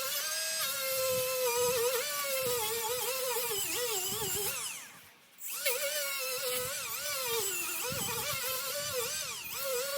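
Die grinder with a sanding disc whining as it smooths cured expanding foam, its pitch wavering and sagging as the disc bears on the foam. About halfway through it slows, stops for about half a second, then starts up again.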